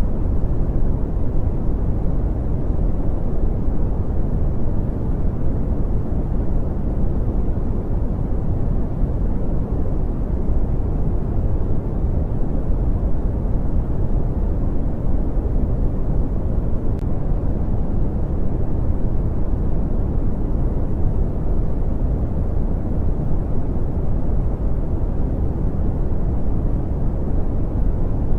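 Brown noise: a steady, deep, even rumble of hiss with most of its weight in the low end, unchanging throughout.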